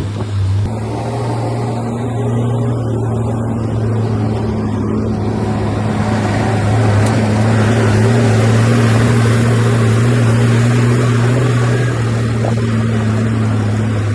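Bulldozer's diesel engine running steadily with a deep, even drone, growing louder and rougher from about six to eleven seconds in as it works under load.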